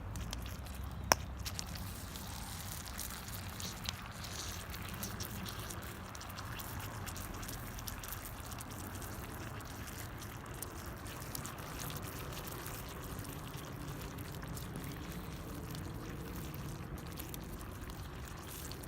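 Wood fire burning steadily, with a few sharp crackles, the sharpest about a second in.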